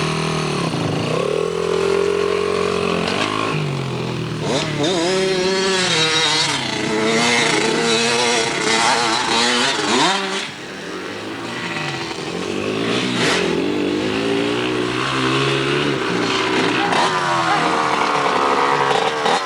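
Dirt bike engine revving up and easing off over and over, its pitch rising and falling as the bike is ridden, with a brief drop in loudness about halfway through.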